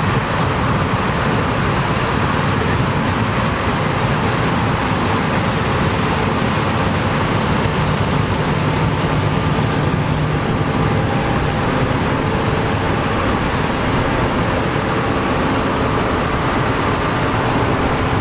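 Combine harvester running steadily while harvesting corn: a dense, even mechanical noise of engine and threshing with faint steady tones under it.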